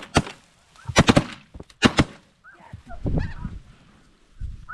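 A rapid volley of shotgun shots from several hunters, about seven blasts in the first two seconds, fired at incoming snow geese. After the volley, geese honk in short, high calls.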